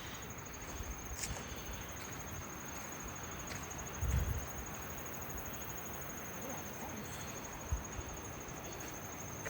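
An insect trilling steadily in a high, evenly pulsed tone over a steady hiss of outdoor background noise, with a brief low bump about four seconds in.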